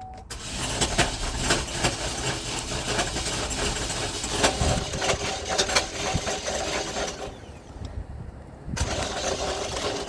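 2015 Chevrolet Equinox engine starting and running, with sharp clicks and rattles over a dense mechanical noise. The sound drops away for about a second and a half near the end, then comes back.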